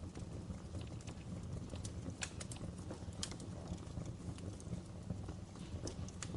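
Wood fire burning in a fireplace: sharp crackles and pops at irregular intervals over a steady low rumble.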